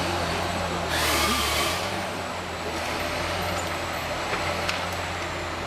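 A heavy machine's engine running steadily, with a loud hissing burst lasting under a second about a second in.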